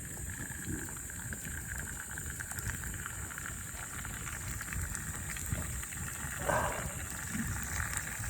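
Meat sizzling on a grill over a wood campfire, with the fire crackling in small ticks. A brief louder sound comes about six and a half seconds in.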